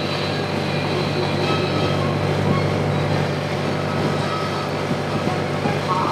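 Sightseeing boat's engine running steadily under way: an even low drone with a broad rushing noise over it, heard from inside the passenger cabin.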